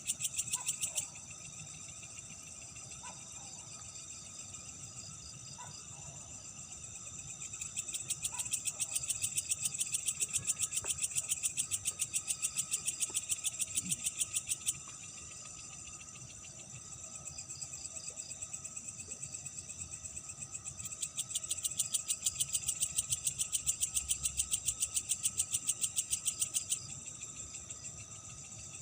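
Night insects calling: a loud, fast-pulsing high trill that comes in long bouts, stopping about a second in, returning about seven seconds in until about fifteen, and again from about twenty-one to twenty-seven seconds, each bout cutting off abruptly, over a fainter steady chorus.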